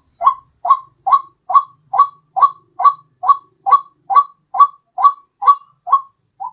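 White-breasted waterhen (ruak-ruak) lure call: a fast, even series of short, rising 'kwak' notes, a little over two a second, with a shorter note at the end.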